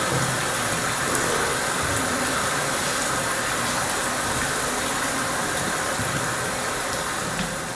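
Steady rushing hiss of running water, easing off near the end.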